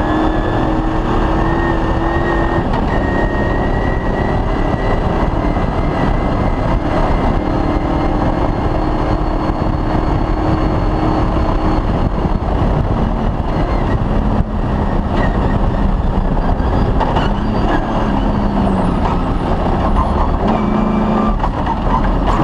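Off-road rally vehicle driving at speed on a cross-country special stage: the engine runs loud and unbroken under dense mechanical and running noise, its note shifting up and down several times.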